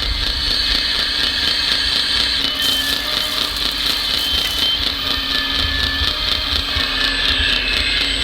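Radio-controlled model construction machine running: a steady whine from its small electric motors, the pitch shifting slightly as they work, over a low rumble.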